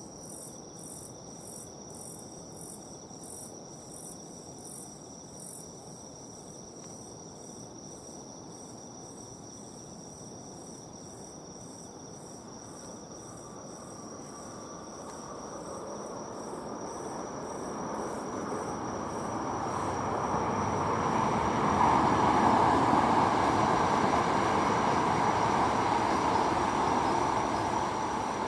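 Insects chirping in a high pulse about twice a second over a steady high drone, while a train approaches and passes: its rumble swells from about halfway through, is loudest near the end, and then starts to fade.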